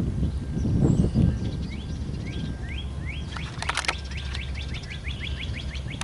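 A songbird chirping: a few separate rising chirps, then a quick run of about eight chirps a second. A low rumble in the first second or so and a brief crackle of clicks midway.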